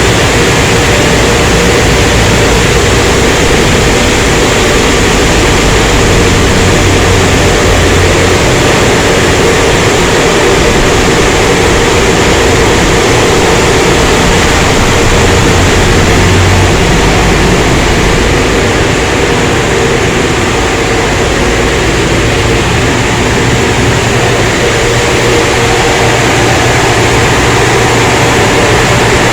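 Automatic car wash tunnel equipment running: a loud, steady rush of noise with a constant hum underneath.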